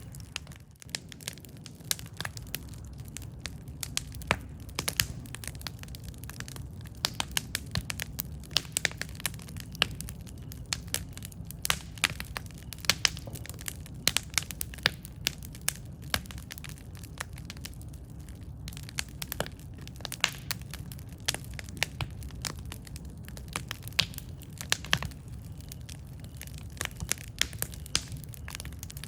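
Campfire burning with a steady low rumble and many sharp wood crackles and pops, irregular and frequent.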